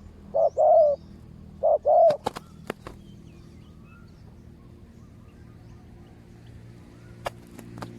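Spotted dove cooing: two phrases of two low hooting notes each in the first two seconds, followed by a few sharp clicks.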